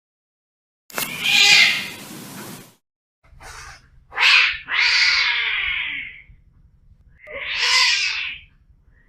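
Cats fighting: harsh hisses and yowls come in three main bursts of one to two seconds each, the first starting suddenly about a second in.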